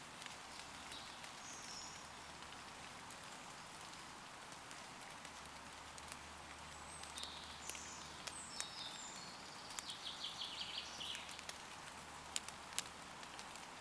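Steady rain falling on leaves, with sharp drops ticking close by now and then. A woodland bird calls briefly near the start, then sings a longer phrase in the second half that ends in a fast trill.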